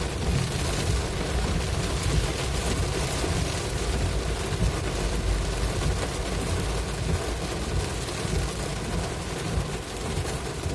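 Heavy rain during a drive: a steady hiss of rain and wet road over a low, uneven rumble of the vehicle.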